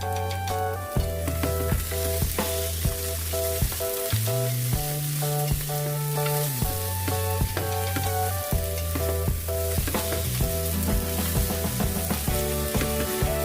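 Hot oil sizzling steadily as food fries in a pan, under background music with a held bass line and a regular beat.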